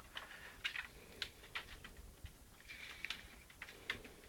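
Cat's paw tapping lightly and irregularly at a reception desk bell, giving faint scattered clicks rather than a full ring.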